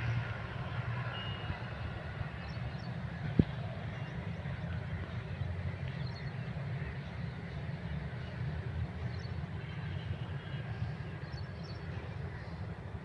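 Faint, scattered bird chirps over a steady low rumble, with one sharp click about three and a half seconds in.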